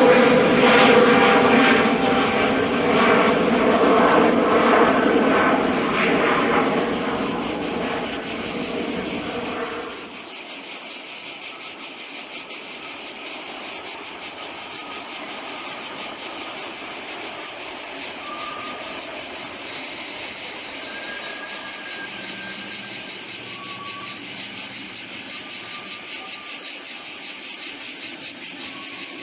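A jet airliner passing, its engine noise fading and then cut off abruptly about ten seconds in. A steady, high-pitched chorus of cicadas runs underneath throughout and is left alone after the cut.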